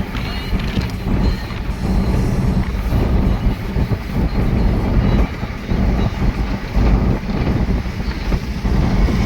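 Truck driving along the highway: a steady, low engine and road rumble.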